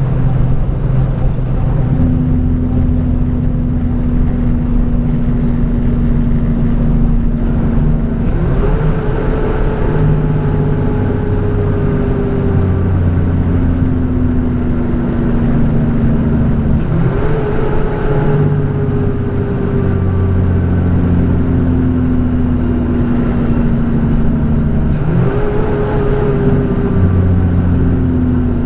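Flatbed straight truck's engine running under way, heard from the cab. Its note jumps up sharply three times, about eight seconds apart, and sags slowly in between, over a steady low road rumble.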